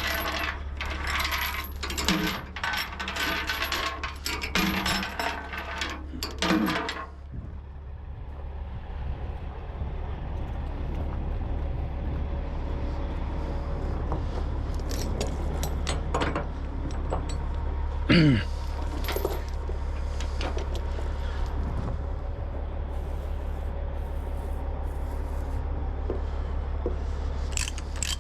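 Steel tie-down chains clinking and rattling as they are handled to chain a truck down onto a trailer: dense metallic clinking for the first several seconds, then only occasional clinks, over a steady low rumble.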